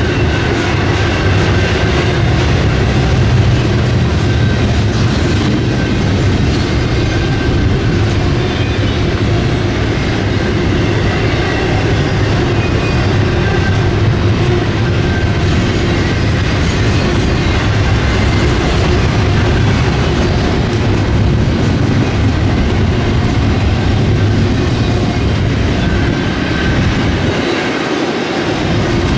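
Freight train cars rolling past, a steady loud rumble with the wheels clattering over the rail joints.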